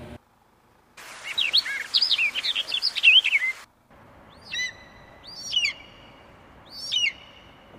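Birds singing. About a second in comes a quick run of chirping, whistled notes lasting about two and a half seconds; it stops abruptly, and after a short break a falling call repeats about once a second.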